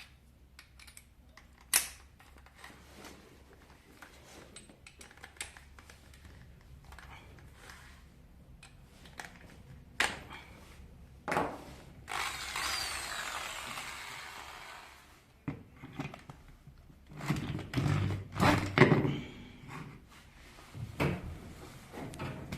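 Scattered clicks and knocks of tools and parts being handled, with an electric drill running for about three seconds about twelve seconds in, while a bit is being fitted for a 9.5 mm hole in the oven fan's worn hub. Louder irregular knocking follows near the end.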